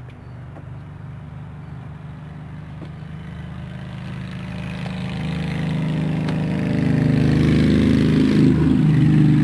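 An engine running steadily, growing much louder from about four seconds in and holding loud toward the end.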